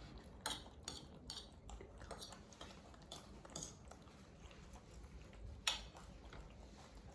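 Scattered light clinks and taps of a spoon and bowl during a meal of rice, a handful of short knocks, the sharpest one near the end.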